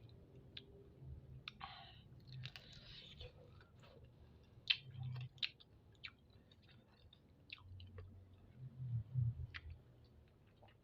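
Close-miked chewing of spicy chicken feet, with many scattered sharp wet mouth clicks and a few soft low bumps.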